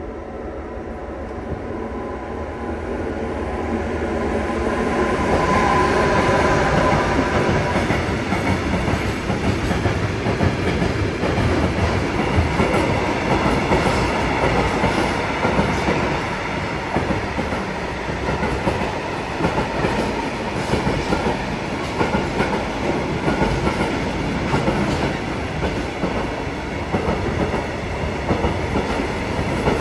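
A train approaching and running past at the platform, getting louder over the first six seconds and then going by steadily, with wheels clattering over the track.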